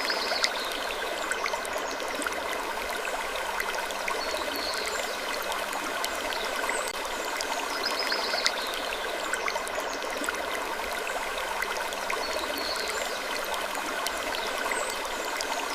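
Steady rushing, water-like noise dense with small ticks and crackles. A slightly brighter hiss comes back every couple of seconds, as in a looped sleep ambience.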